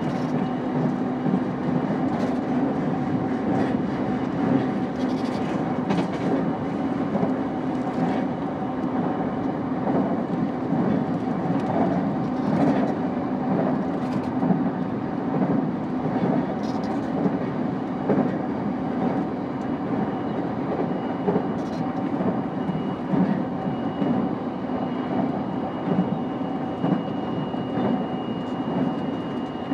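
JR East E233 series 5000 electric train heard from inside the car while running at speed: a steady rumble of wheels on the rails with irregular sharp clicks from the track. A faint high steady whine comes up in the second half.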